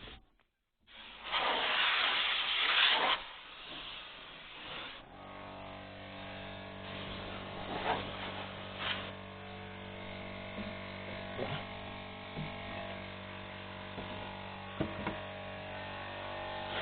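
A loud rush of noise for about two seconds, then a steady mechanical hum with a few light clicks.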